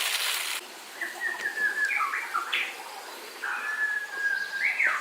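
A bird singing two high phrases, each a held note followed by quick up-and-down swoops.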